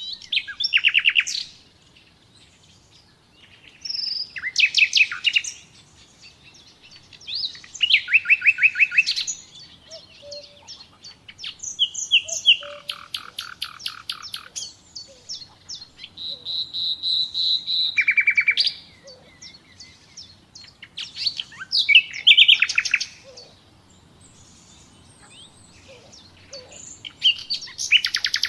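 Nightingale singing: about seven short phrases separated by brief pauses, each a rapid series of repeated notes and trills. Midway there is a long pure whistle that swells in loudness before breaking into a trill.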